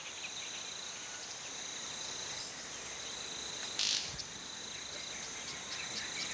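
Rainforest insects keep up a steady high-pitched drone. About four seconds in comes one short, sharp, high-pitched burst: the red-capped manakin's courtship sound, made by its wingtips striking together rather than by its voice.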